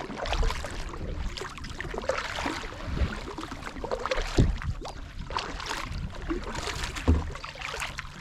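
Water splashing and sloshing around a paddleboard or boat, with irregular short knocks and a low rumble throughout.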